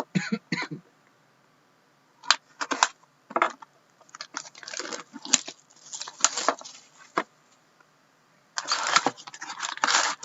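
Hockey card box and packs being opened by hand: irregular bursts of crinkling, tearing and scraping of the wrapper, turning into dense continuous crinkling about eight and a half seconds in.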